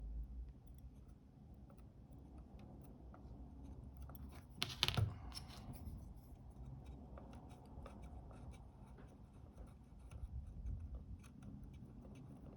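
Faint scratching, rubbing and small clicks of hand tools working close on a camera's flex cable, cleaning off the sticky glue, with one louder short scrape about five seconds in.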